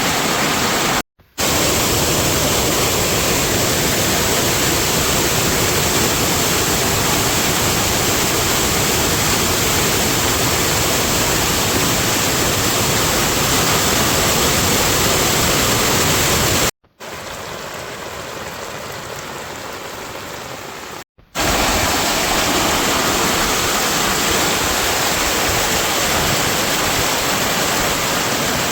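Heavy rain falling, a steady loud rush of noise. It cuts out briefly about a second in and again past the middle, with a quieter stretch of about four seconds in between.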